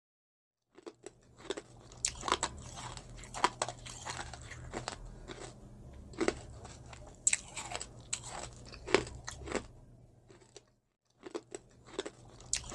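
Close-miked eating sounds: irregular crunching and chewing of crisp food, which stop briefly near the end and then start again, over a faint low hum.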